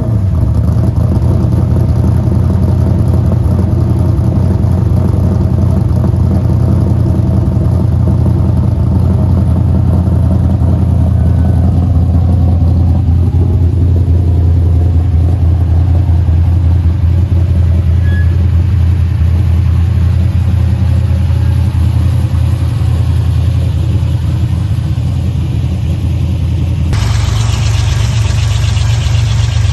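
LS V8 engine in a Datsun 240Z running at a steady idle, a deep even hum. Near the end the sound shifts abruptly and more hiss comes in.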